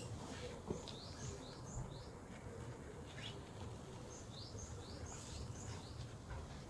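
Small birds chirping, with short rising chirps repeated many times, over a faint low background rumble. A single light click comes about 0.7 s in.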